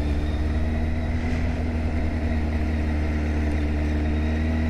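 A vehicle engine running steadily at constant revs, a low drone with a steady hum over it and no change in pitch.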